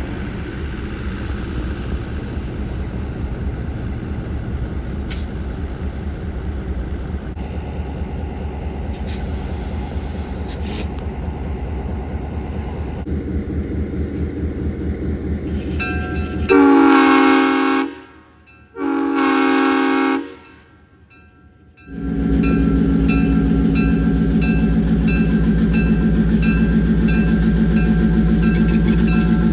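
EMD FP7 diesel locomotive's V16 two-stroke engine running steadily, then two long blasts on its air horn about halfway through, a chord of several notes. After the horn the engine runs louder and steady, as when it throttles up to move off; two long blasts is the railroad signal for starting forward.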